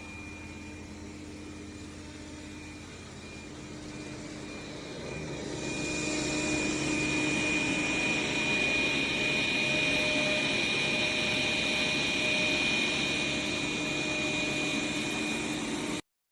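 Dreame D20 Pro Plus robot vacuum running with a steady high whine over a hum. It grows louder about five seconds in and stops abruptly just before the end.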